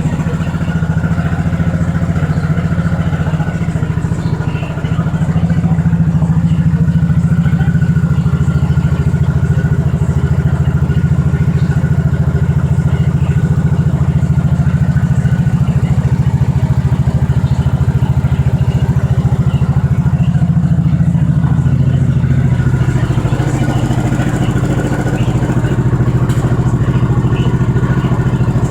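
Freshly rebuilt single-cylinder four-stroke motorcycle engine idling steadily on its first test run after a rebuild, its note shifting slightly about two-thirds of the way through.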